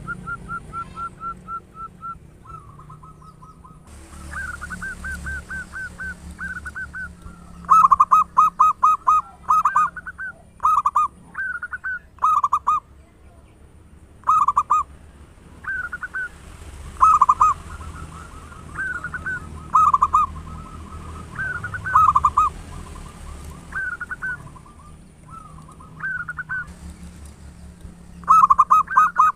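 Zebra doves (perkutut) cooing: repeated phrases of rapid, rolling coos with short pauses between them, some phrases loud and close, others softer.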